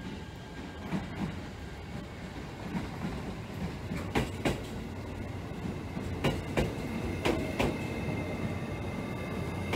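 E653-series electric limited-express train running slowly into the platform, its wheels clicking in pairs over the rail joints above a steady low rumble, with a faint high whine setting in over the last few seconds.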